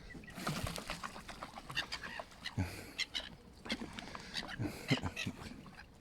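Gulls calling, a run of short squawks from several birds.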